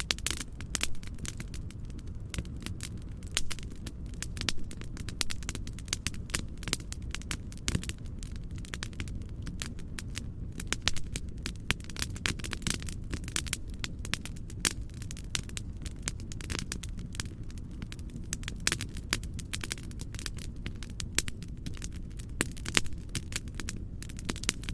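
Wood fire crackling in a fireplace: a dense run of sharp pops and snaps over a steady low rumble of fire and soft noise.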